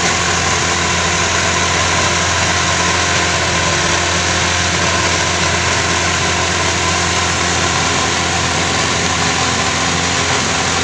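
Honda Civic ES car engine running steadily at one constant pitch, with no revving.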